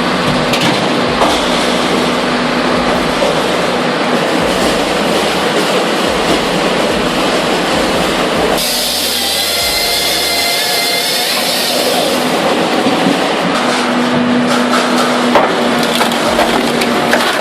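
Chainsaw cutting through wood: a loud, steady rasping cut, its sound changing for a few seconds about halfway through.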